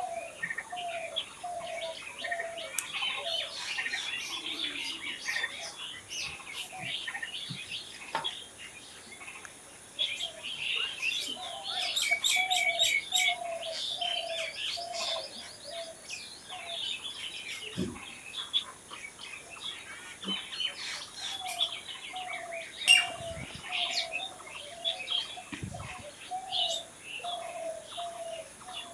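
Several birds chirping and singing at once, dense short high chirps, with a lower call repeated as a run of evenly spaced notes three times. One sharp click stands out about three quarters of the way through.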